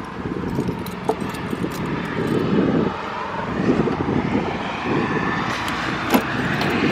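A passing vehicle: a steady rumble that slowly grows louder, with a couple of sharp clicks from a car's locked door handle being tried.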